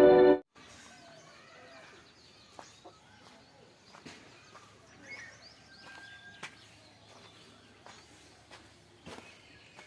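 Music cuts off about half a second in, then quiet outdoor ambience with birds chirping and a few faint clicks.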